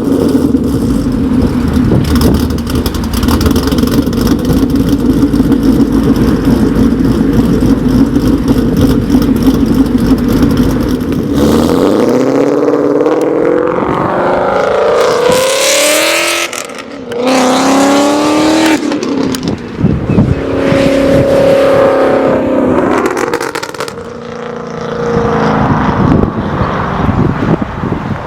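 2013 Ford Mustang GT's 5.0 V8 through BBK long-tube headers and Borla S-Type mufflers, idling with a choppy, lumpy note from a ghost cam tune that mimics an aggressive camshaft. About twelve seconds in it is revved up and down several times.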